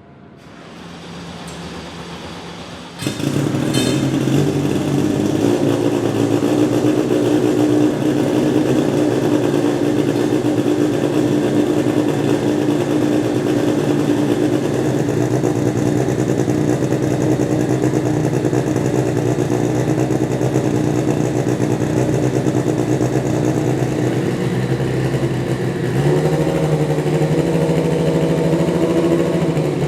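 Turbocharged BMW S14B20 four-cylinder in a BMW E36 race car running on warm-up. Its note comes in suddenly about three seconds in, then holds a steady idle, rising slightly for the last few seconds.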